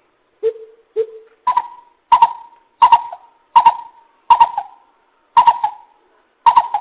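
Coucal (bìm bịp) call played as a decoy recording: a series of hollow hooting notes. Two lower notes are followed, about a second and a half in, by a higher, louder run of about seven notes, evenly spaced.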